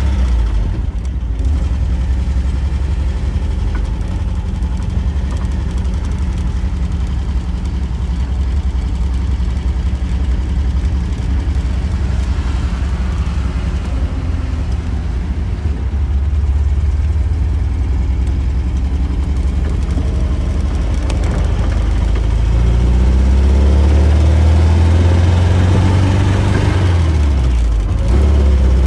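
1974 MGB's 1.8-litre four-cylinder engine with twin carburettors, running steadily. In the last several seconds the engine note rises, drops sharply for a moment about 27 seconds in, then picks up again.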